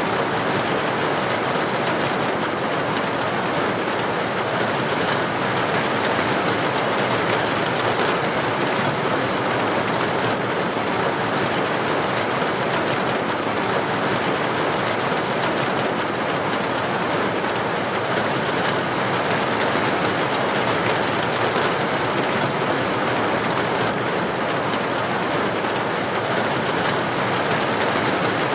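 Heavy rain falling steadily on a street, an even, unbroken hiss with no thunder claps.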